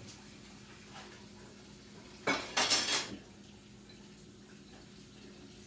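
A bowl and utensils clattering in a kitchen sink: a sharp knock a little over two seconds in, then a brief burst of clinking lasting about half a second. It is the bowl of hardening sugar syrup being washed out.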